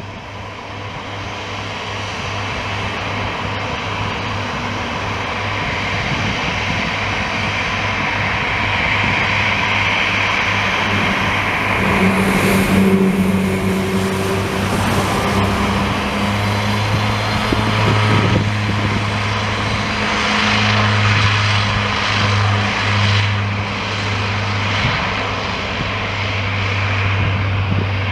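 Mitsubishi MU-2B-36A twin turboprop, its two Garrett TPE331 engines and propellers running with a steady low propeller drone under a high turbine whine. It grows louder over the first several seconds, then holds with slight swells.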